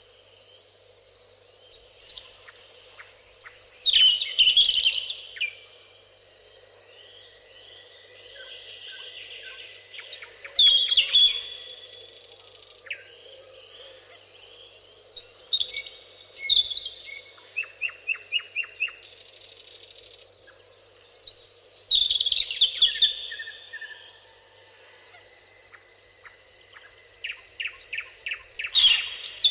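Songbirds singing in a meadow chorus, with loud song phrases of rapid chirps and trills coming about every six seconds and quieter calls between them, over a faint steady background.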